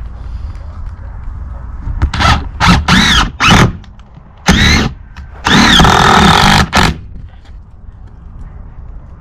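Power drill driving screws in about five short bursts, its motor whine rising and falling in pitch with each pull of the trigger; the longest run lasts about a second.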